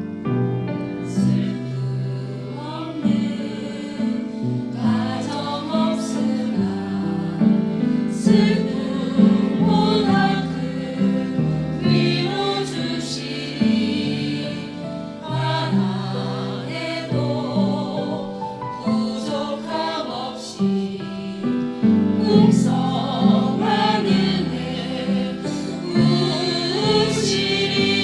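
Small church vocal ensemble singing a gospel hymn in parts.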